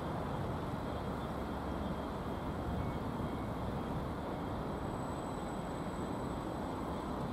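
Steady low rumble and hiss of railway station background noise, with faint high steady tones and no distinct events.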